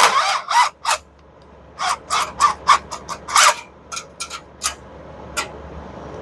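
A bird calling in a quick series of short calls, stopping for about a second before starting again.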